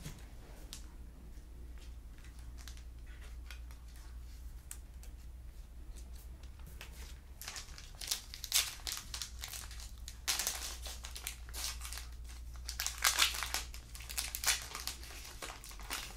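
Crinkling and rustling of plastic card sleeves and pack wrappers as trading cards are handled and sleeved. Faint scattered ticks at first, then louder crinkly bursts in the second half.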